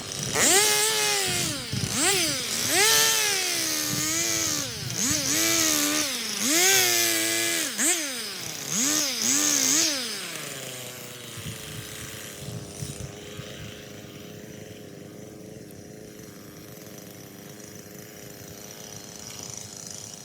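An engine revs up and down over and over, its pitch rising and falling about once a second. About halfway through it drops back and keeps running at a steady, lower level.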